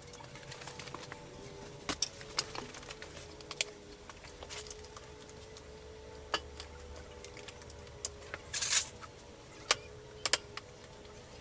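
Scattered sharp metallic clinks and clatters of tools and parts being handled, with a brief rattle about two-thirds of the way in, over a steady faint hum.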